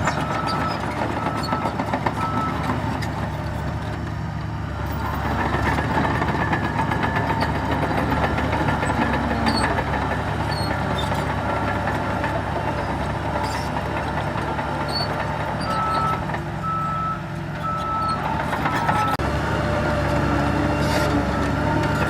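Heavy diesel earthmoving machinery running steadily. A reversing alarm beeps at about one beep a second near the start and again for four beeps later on.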